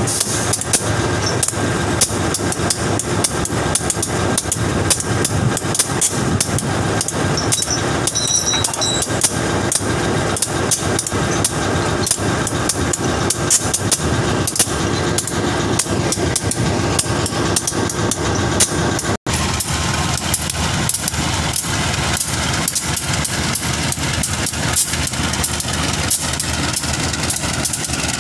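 Railway ballast wagon clattering and clanking with a diesel locomotive's engine running underneath; dense rapid knocks throughout. A brief dropout about 19 seconds in.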